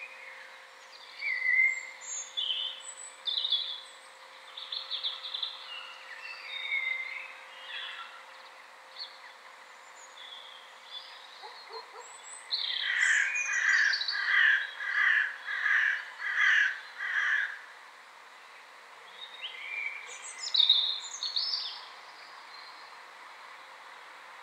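Songbirds singing: scattered chirps and short whistled phrases, with a louder run of evenly repeated notes, about two a second, in the middle.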